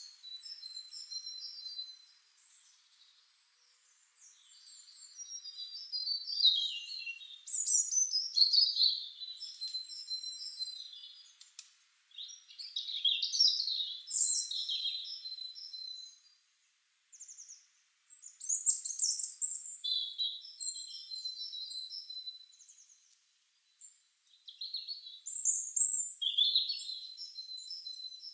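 Songbirds singing: high-pitched chirps and trills in bouts of a few seconds, with short pauses between them.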